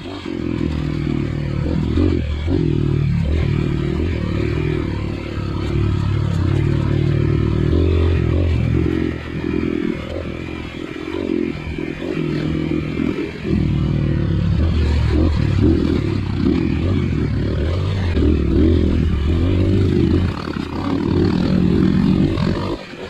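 Dirt bike engine running and revving up and down, easing off and picking up again several times.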